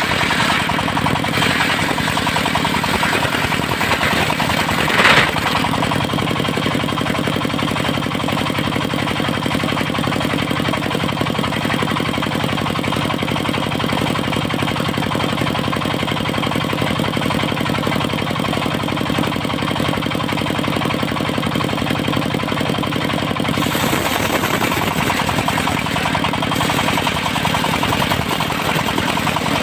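Engine of a portable circular sawmill running steadily with a fast, even knock, with one brief louder noise about five seconds in.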